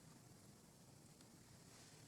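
Near silence: faint background hiss with a couple of very faint ticks.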